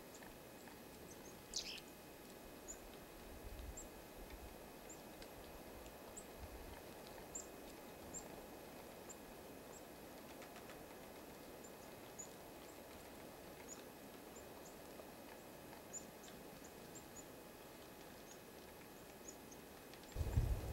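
Small songbirds at a winter feeder giving short, high, faint chirps, scattered irregularly over a steady outdoor hiss. Near the end a louder low rumble sets in.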